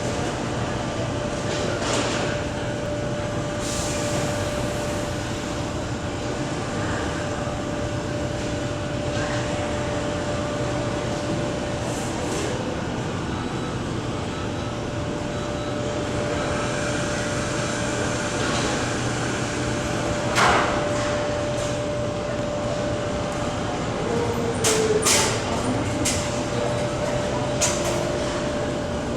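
Steady hum of an Airbus A330-300 airliner with a constant mid-pitched whine, and a few short clicks and knocks scattered through it.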